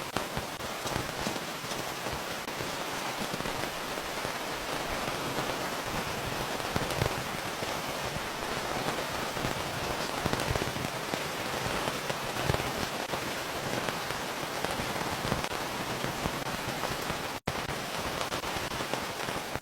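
Steady rain falling, with many individual drops striking close by. The sound cuts out for an instant about three-quarters of the way through.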